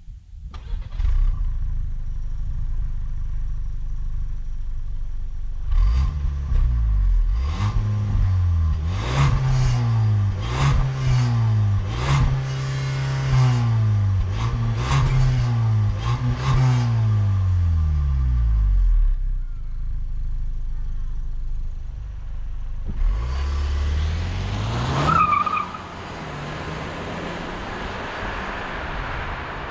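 The 2021 Ford Escape ST-Line's 2.0-litre turbo-petrol four-cylinder accelerating hard. The engine note climbs and drops back at each upshift of the eight-speed automatic, then winds down as the car comes off the throttle. A second short burst of acceleration follows near the end, with a brief high squeal, then steady road noise.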